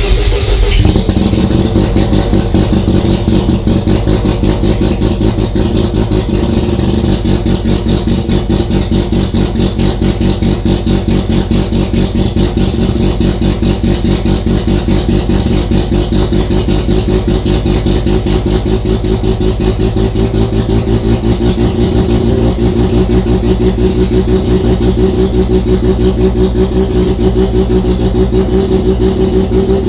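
Mazda RX-7 FC3S's 13B two-rotor rotary engine, freshly started and running at a high idle under the ECU's idle air control, with a fast, even pulsing; the idle slowly climbs. The bypass air control valve is pulsing, and the idle is revving up rather than settling.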